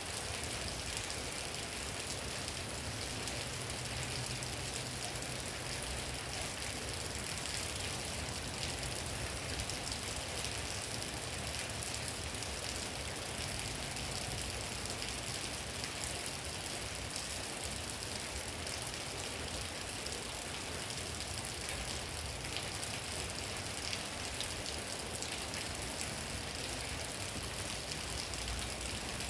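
Steady rain falling, an even hiss of drops on surfaces, with a low rumble underneath.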